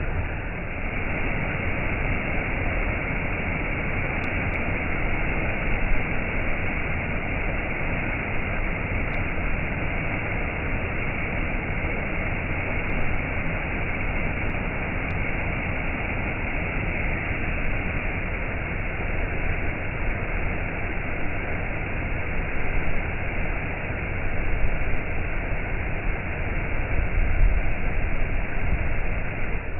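Waterfall: falling water rushing steadily, an even, unbroken noise.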